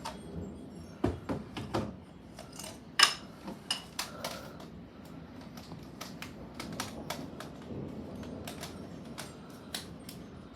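Irregular sharp ticks and taps, a few a second, clustered in the first few seconds and sparser afterwards, over a low steady background.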